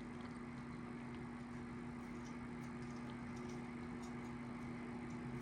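Helicopter running steadily under test: an even hum with a strong constant low tone, a haze of mechanical noise and faint ticks, with no change in pitch.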